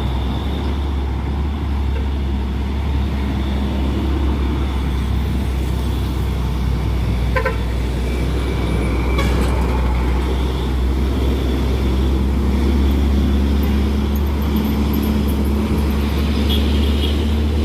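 Heavy truck engine running steadily under load on a steep uphill climb, a deep continuous drone that grows slightly louder toward the end. A couple of short clicks come near the middle.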